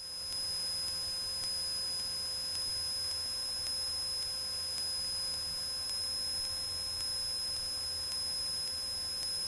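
Steady electrical hum with a thin high-pitched whine on the aircraft's recorded intercom and radio audio, with no speech on the channel. The low drone of the engine stays faint beneath it.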